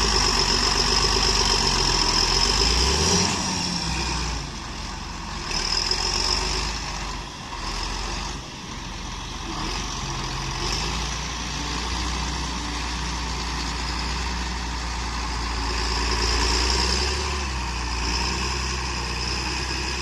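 John Deere 8420 tractor's diesel engine running steadily. It drops in level about three seconds in, dips briefly twice around the middle, and picks up again later, with a high thin whine that comes and goes.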